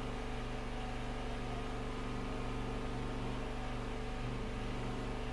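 Steady low hum made of several even tones, over a constant hiss.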